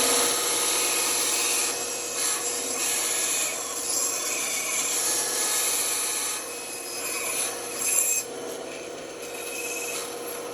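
Band saw cutting wood: a steady hum under a continuous rasp of the blade through the wood, rising and falling as the piece is worked.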